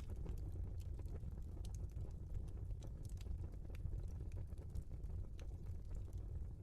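Wood fire crackling in a fireplace: irregular sharp pops and snaps over a low, steady rumble of burning logs.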